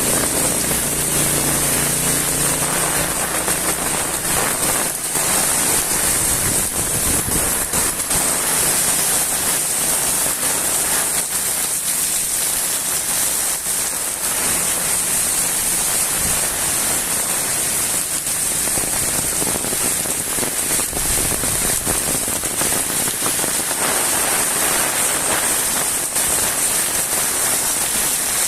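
Fairly heavy rain falling steadily on the ground and surrounding surfaces.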